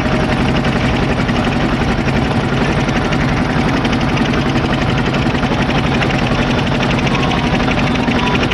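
Engine of a motorboat running steadily and close, a constant low drone with fast even pulsing.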